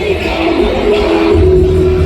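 Loud live concert music through a big PA, with heavy bass and a held, wavering melody line over it.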